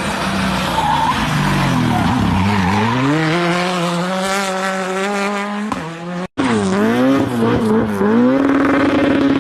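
Racing car engine run hard with tyres skidding, the revs dipping and climbing back up. The sound cuts off abruptly about six seconds in and another car takes over, its revs falling and rising again and again.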